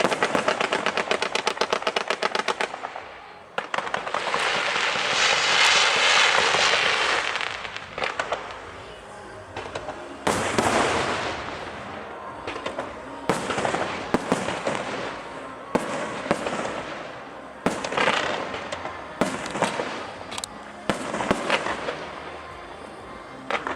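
Aerial fireworks going off: a fast run of sharp reports, then a dense crackling hiss for a few seconds, then single shell bursts a second or two apart, each trailing crackle.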